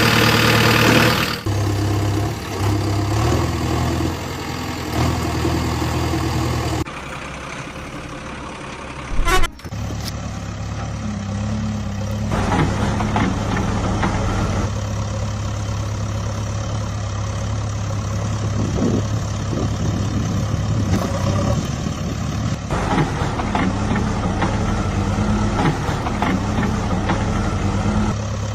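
Heavy vehicle engine running at a steady low idle, in several spliced segments that change abruptly, with one sharp loud knock about nine and a half seconds in.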